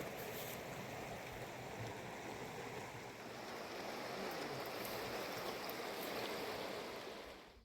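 Mountain river rushing, a steady roar of flowing water that cuts off abruptly at the very end.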